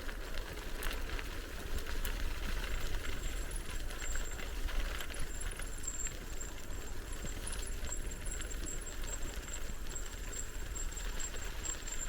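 Bicycle riding along a path: tyre noise with light ticking and rattling over a steady low rumble. A thin, broken high-pitched tone joins about three seconds in.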